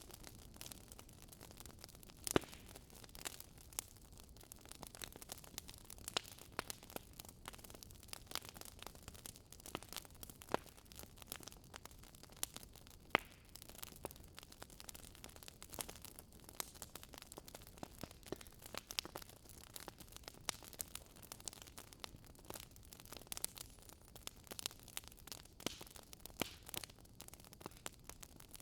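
Wood fire crackling steadily in a fireplace: irregular sharp pops and snaps from the burning logs over a soft hiss, the loudest pops about two seconds in and about thirteen seconds in.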